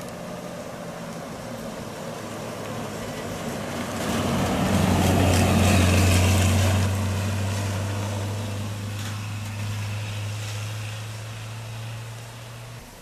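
Rally car engine running close by. It grows louder about four seconds in and then holds one steady low note. The sound cuts off suddenly near the end.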